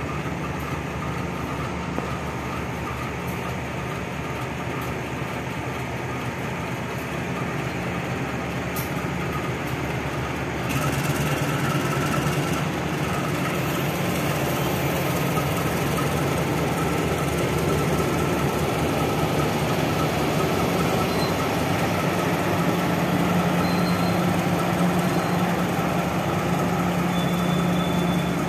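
Diesel-hauled passenger train pulling out of the station, with the locomotive's engine running and the coaches rolling on the rails. The train grows louder about a third of the way in.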